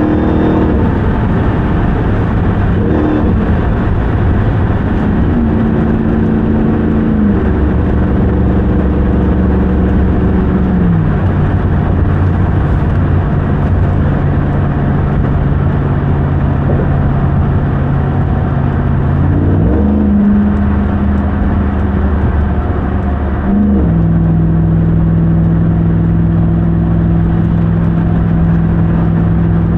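2021 Ram 1500 TRX's supercharged 6.2-litre Hemi V8 driving: its note steps down in pitch with each of several upshifts in the first ten seconds, then holds steady at cruise, rising and falling briefly once and stepping down again about three-quarters of the way through.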